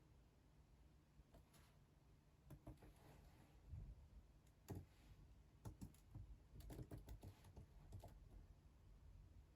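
Faint computer keyboard typing: irregular clusters of key clicks starting a couple of seconds in and trailing off near the end.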